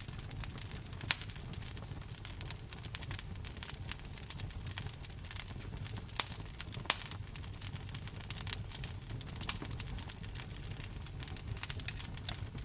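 Wood fire burning in a fireplace: irregular crackles and sharp pops over a low steady rumble of the flames, the strongest pops about a second in and around six and seven seconds in.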